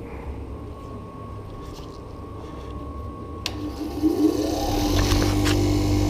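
Electric wire wheel switched on with a click and spinning up, its whine rising in pitch for about a second and then running at a steady speed.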